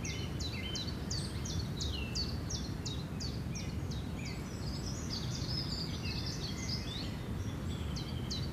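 Small birds chirping: a fast run of short, high, downward-sweeping notes, about three a second, breaking into a jumble of twittering midway and returning near the end, over a steady low rumble of outdoor noise.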